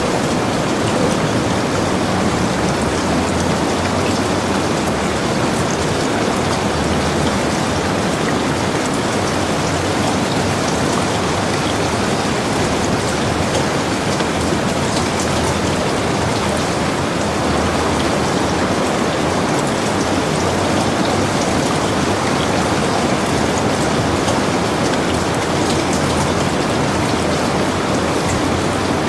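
Heavy rain falling steadily: a dense, even hiss of rain with fine scattered drop ticks, unchanging throughout.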